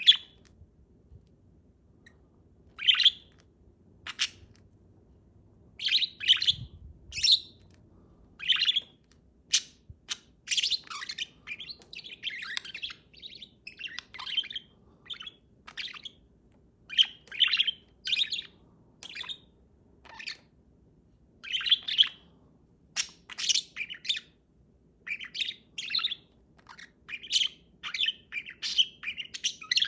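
Blue parakeet chirping and chattering in short calls. The calls come a second or two apart at first, then in quick, busy runs from about ten seconds on.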